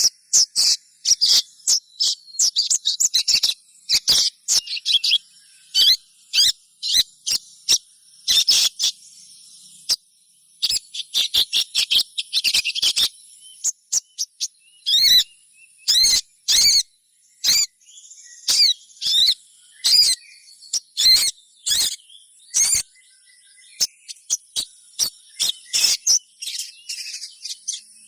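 Little spiderhunter (sogon) giving many short, high, sharp chirps, some single and some in quick runs, with a steady thin high insect drone behind them.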